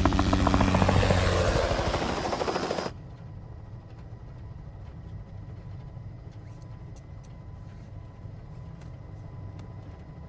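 Helicopter in flight, its rotor chopping loudly for about three seconds. It then cuts abruptly to a much quieter, steady low drone.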